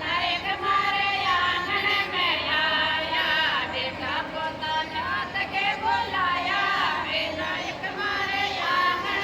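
Women's voices singing a Rajasthani Marwari folk bhajan together.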